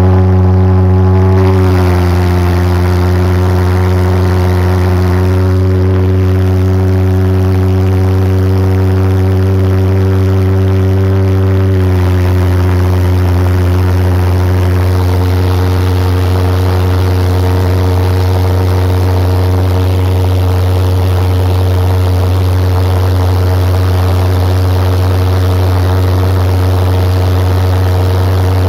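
Homemade jet engine on a go-kart running with a steady, deep droning tone that holds one pitch throughout.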